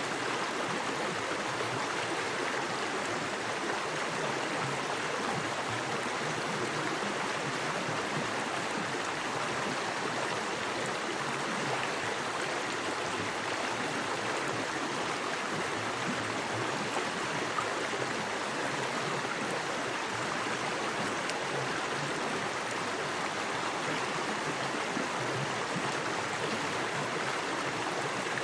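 Small forest creek with fast water running over rocks: a steady, even rush of water.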